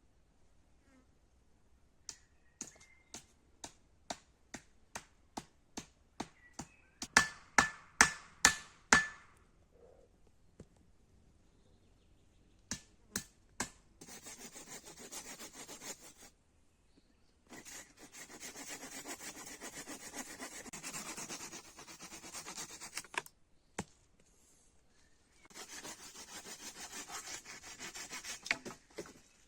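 Hand tools working wood. First comes a series of light taps, about two a second, then several hard hammer blows with a ringing note. After that come three long stretches of steady rasping on wood, like sawing or filing.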